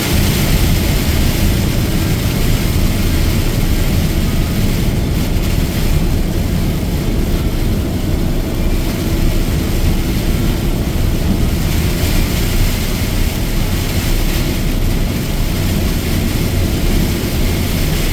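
A truck driving in heavy rain: a steady low engine and road rumble under a constant hiss of rain and tyre spray.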